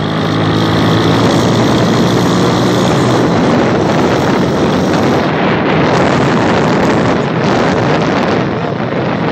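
Wind buffeting the microphone on a moving step-through moped, with the bike's 110 cc engine running underneath. The engine's steady drone shows through for the first few seconds, then the wind noise covers it.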